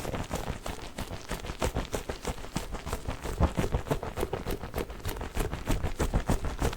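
A giant Orbeez water-bead ball being handled with quick, repeated taps and squishes, about seven a second.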